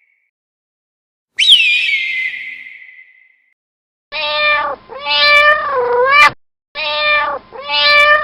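A cat meowing: two drawn-out meows, each in two parts with a bending pitch, starting about four seconds in. Before them, about a second and a half in, comes a single sharp high whistling cry that rises, then falls and fades.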